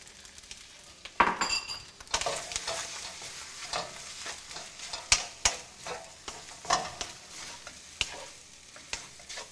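Fried rice and beaten egg sizzling in a hot wok while a wooden spoon stirs and scrapes it round the pan, with irregular scrapes and knocks. The stirring gets louder about a second in.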